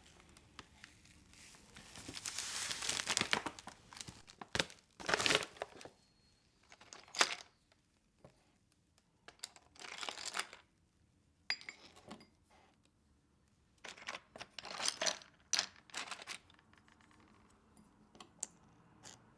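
Crinkly wrapping being crumpled and handled in a series of bursts with pauses between, the longest about two seconds in, plus a few short sharp ticks.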